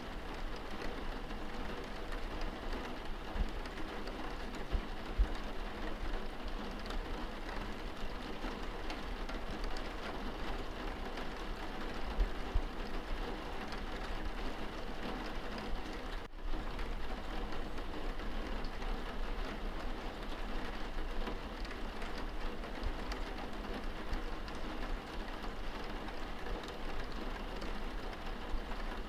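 Steady rain falling on window glass, heard from inside the room, with scattered sharper drop ticks and a few low thumps. The sound cuts out for an instant about sixteen seconds in.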